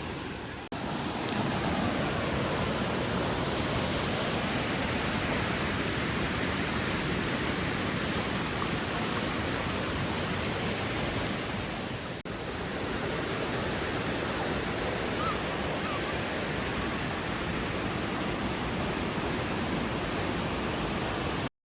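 Steady rushing water, an even hiss that does not change, broken by two brief dropouts, one just under a second in and one about twelve seconds in.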